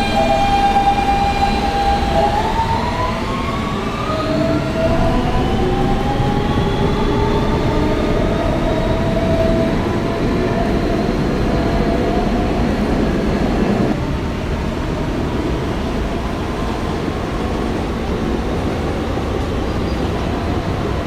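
Siemens AC traction motors of an R160B subway car whining as the train pulls out. A steady tone for about two seconds gives way to several tones climbing in pitch as it gathers speed. About two-thirds of the way in the whine fades, leaving the steady rumble of wheels on rail.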